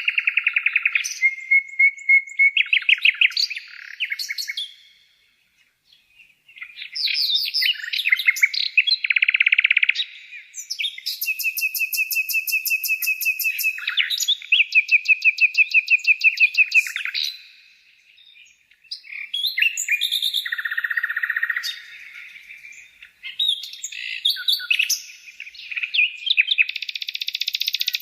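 A songbird singing a long, varied song of fast trills and rapidly repeated notes, pausing briefly twice.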